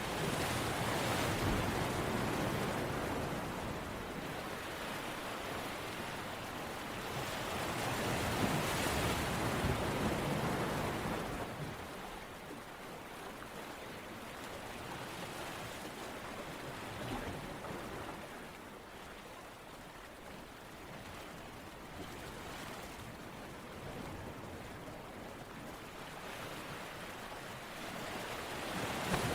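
Ocean waves washing in and drawing back: a rushing noise that swells twice in the first half, eases off for a long stretch, then builds again near the end.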